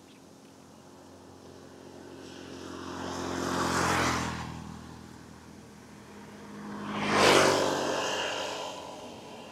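Two road vehicles driving past one after the other: the first swells up and fades away about four seconds in, and the second, louder and quicker, passes about seven seconds in.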